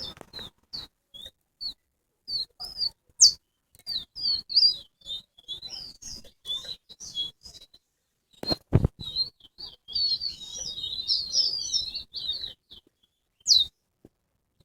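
Chestnut-bellied seed finch (towa-towa) singing: a run of short, high chirps and twittering notes, busiest about ten to twelve seconds in. A single low thump comes a little past the middle.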